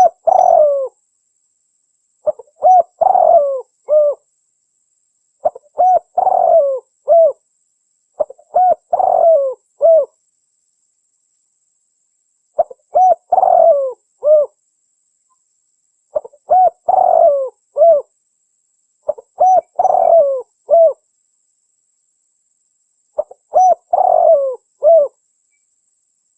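Spotted dove (tekukur) cooing: about eight repeated song phrases, each a short run of rounded coos, with silent pauses of one to three seconds between them.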